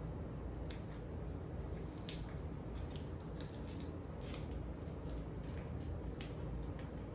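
Scattered light clicks and rustles of parts and tools being handled, over a steady low hum.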